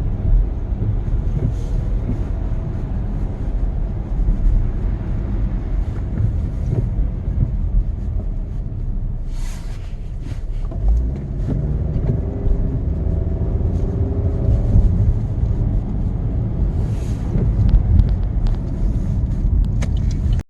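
Car cabin noise while driving on a snowy road: a steady low rumble of engine and tyres, with two brief hisses about halfway through and near the end.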